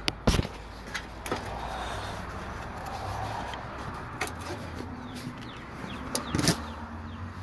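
Scattered sharp clicks and knocks of car body parts and a spacer being handled and pushed into place while a fender is fitted, loudest about six seconds in, over a low steady hum.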